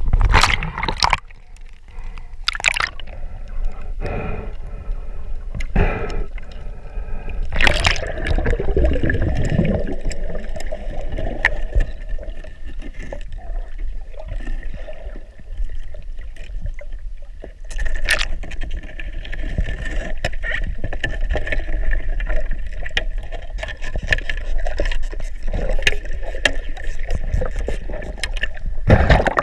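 Water gurgling and sloshing, with scattered sharp clicks and knocks and a short stretch of bubbling about a third of the way in.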